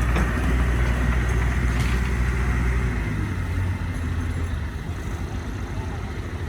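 Heavy diesel engine of earth-moving machinery running with a deep, steady hum that changes note and eases off about three seconds in.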